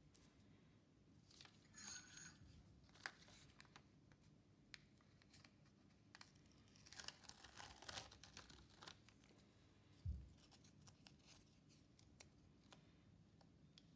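Faint handling noises in a small room: scattered clicks and short scraping or rustling sounds, busiest about seven to nine seconds in, with one soft low thump about ten seconds in.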